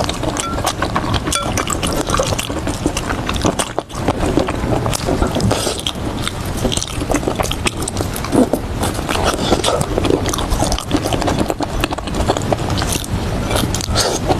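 Close-miked eating: wet chewing and mouth sounds with many quick clicks and smacks, one brief pause about four seconds in.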